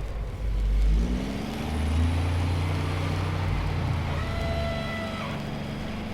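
A motor vehicle engine running with a heavy low rumble. It revs up, its pitch rising about a second in, then runs steadily. A higher steady tone sounds for about a second partway through.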